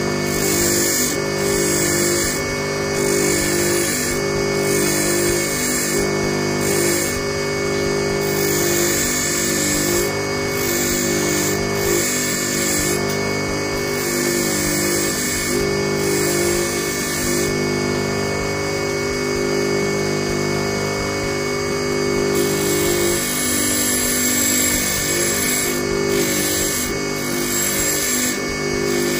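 Bench grinder running steadily with a constant motor hum, while thin steel wire for a fishing hook is pressed against the wheel in repeated passes, giving a high grinding hiss that comes and goes every second or few seconds.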